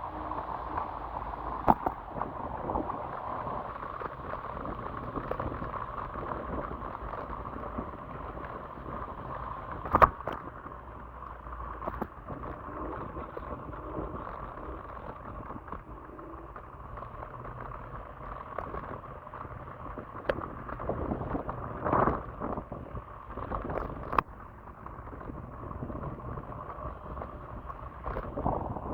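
Steady rushing noise of an electric scooter ride, with wind buffeting the microphone, broken by a few sharp knocks, the loudest about ten seconds in.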